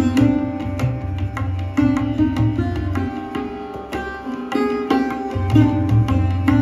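Sarod being played in Indian classical style, with quick plucked strokes on ringing metal strings, accompanied by tabla with a low bass-drum tone recurring beneath.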